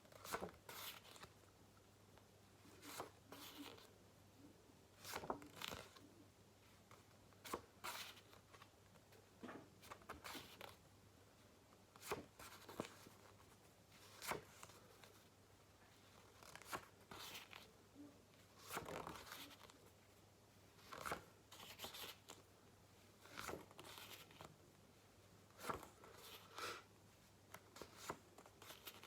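Faint flicks and rustles of paper flashcards being turned over one after another, about one every second or two.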